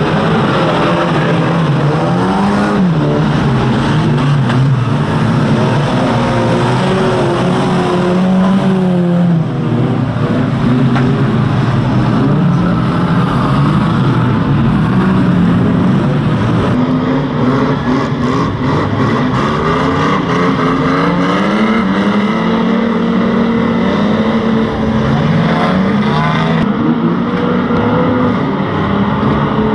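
Engines of several pre-1980 banger racing cars running together, revving up and down as the pack races, pitch rising and falling continuously.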